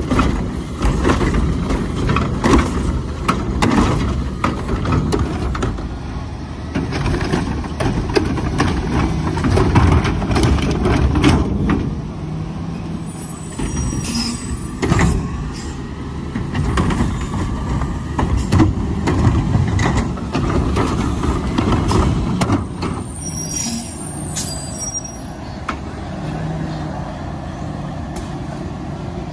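Garbage truck's diesel engine running with a steady rumble, with clanks and knocks through the first half. Brief high-pitched squeals of its brakes come twice, around the middle and about three-quarters through.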